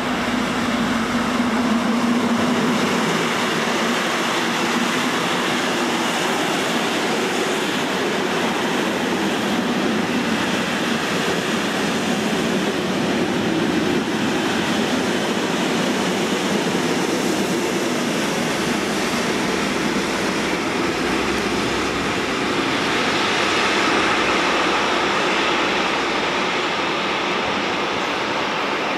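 Freight train passing close by: a diesel locomotive's engine running as it goes past, then the steady rumble and rattle of bogie hopper wagons rolling over the rails.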